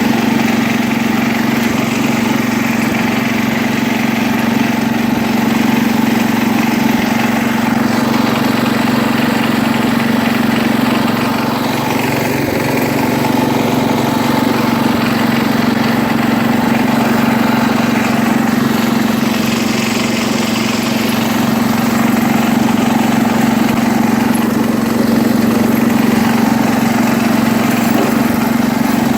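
1973 International Harvester Cub Cadet 86 garden tractor's single-cylinder engine running at a steady pitch.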